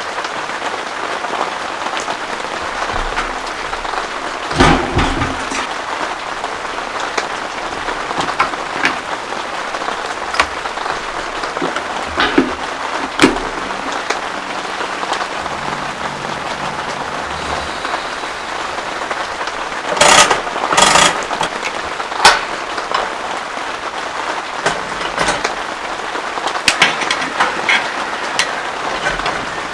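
Heavy rain falling steadily, a dense hiss dotted with sharp taps of big drops landing close by. A few louder splatters come about four and a half seconds in and again around twenty to twenty-two seconds.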